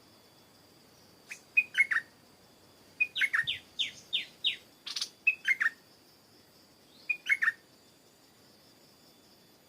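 Stripe-throated bulbul singing in short bursts of quick, down-slurred notes: a phrase about a second and a half in, a run of five falling notes from about three seconds, and two more short phrases near five and a half and seven seconds. A single sharp click comes about five seconds in, and a faint steady high tone lies underneath.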